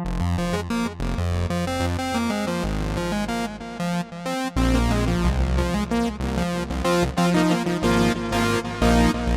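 Sequential Take 5 five-voice analog polysynth playing a preset: a fast sequenced pattern of short notes over a bass line, which becomes heavier about halfway through.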